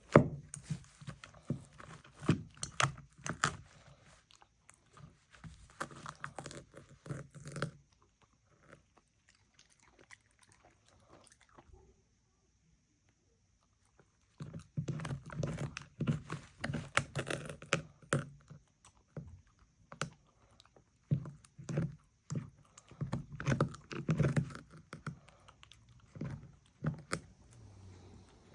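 A dog chewing and crunching its food, in rapid crisp bites, stopping for several seconds about a third of the way through before chewing again.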